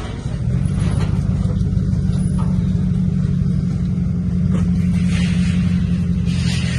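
A motor vehicle's engine running steadily at an even low drone, without revving.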